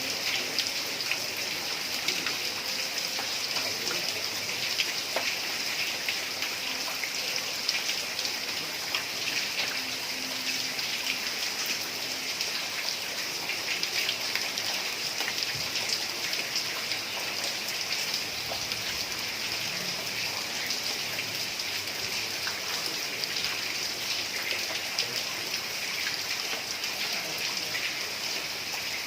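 Heavy rain falling steadily on a tiled roof, a dense even hiss full of small drop taps.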